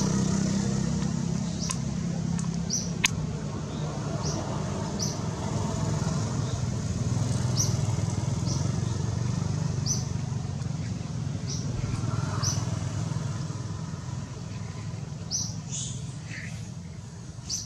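Outdoor ambience: a steady low rumble with short, high bird chirps repeated every second or two, and a single sharp click about three seconds in.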